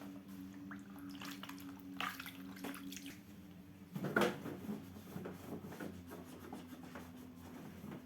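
Faint wiping, drips and light knocks of a freezer being cleaned by hand, with a low steady hum that stops about four seconds in.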